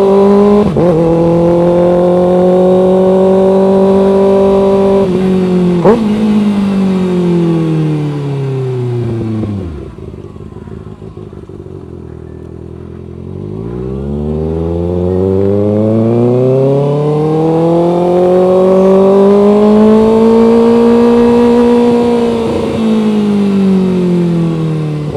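Kawasaki ZX-6R 636 inline-four engine under riding. It holds a steady pitch with short breaks about one and six seconds in, then the revs fall away to a low, quieter note about ten seconds in. It climbs again as the bike pulls away and breaks once more near the end.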